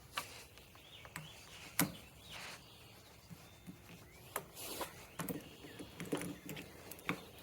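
Scattered light clicks, taps and short rustles of hands working a throttle cable end onto a scooter's throttle lever, with a sharper click about two seconds in.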